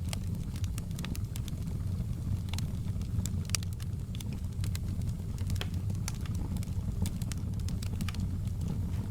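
Campfire burning, with sharp, irregular crackles and pops several times a second over a steady low rumble of the flames.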